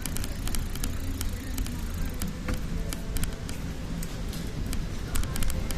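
Bicycle being ridden: steady low wind and road rumble, with frequent sharp rattling clicks from the bike.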